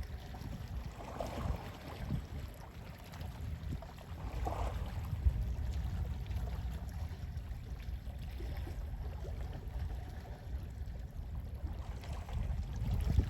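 Gentle sea waves lapping and washing in, over a steady low rumble of sea wind, with soft swells of water about a second in and again around four seconds in.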